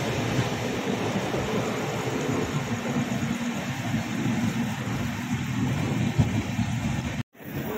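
Express passenger train running, a steady rumble and rattle of the coaches on the track; it cuts off abruptly near the end.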